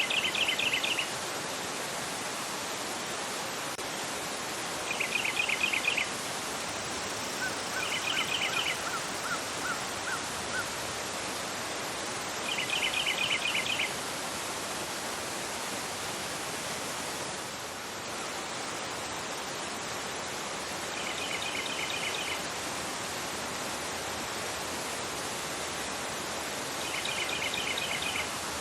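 Fast river current rushing over a rocky bed, a steady even rush of water. Over it a songbird repeats a short, quick trill about every few seconds, six times in all, with a fainter series of lower, evenly spaced notes from another bird about a third of the way in.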